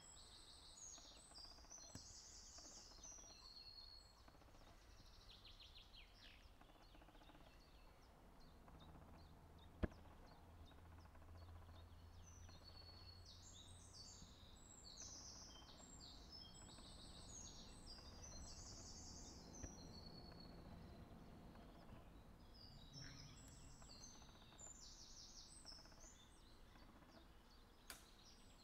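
Faint songbird singing, repeating short high-pitched phrases in bursts, with one sharp click about ten seconds in.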